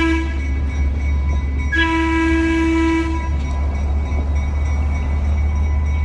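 Narrow-gauge train's horn sounding a short blast, then a longer blast of about a second and a half, over the steady low rumble of the moving train.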